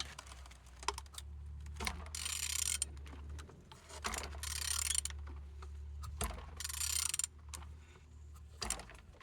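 A removed VW 1.6 TDI (CAYC) diesel engine being turned over with a hand tool: metallic clicking and rasping in three longer bursts with shorter clicks between. The engine turns freely, a sign it is not seized.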